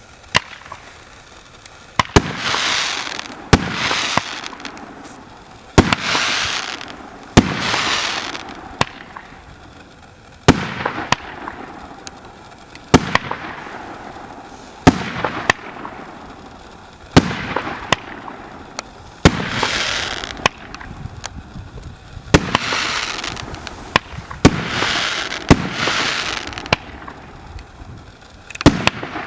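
Firework battery (cake) firing its shots one after another, about one every one to two seconds. Each shot is a sharp bang, many followed by about a second of rushing noise.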